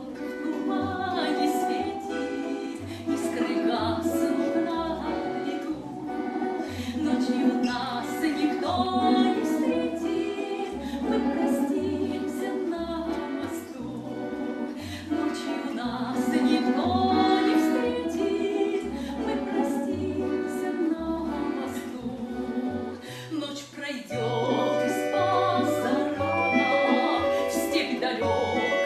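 Live music: a woman singing over plucked-string accompaniment with a bass line that steps from note to note.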